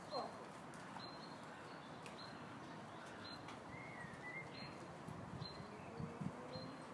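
Birds calling, one short high note repeated about once a second with a few other gliding calls, over faint background noise. A few soft low thuds come near the end.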